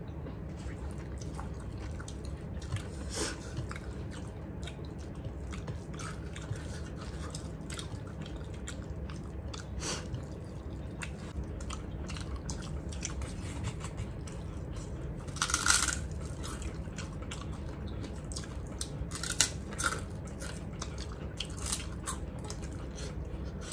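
Close-up mouth sounds of people eating by hand: chewing and biting, with scattered small crunches and clicks as they bite into small round green bitter fruit and eat rice. A louder brief rustling burst comes about two-thirds of the way in, over a steady low hum.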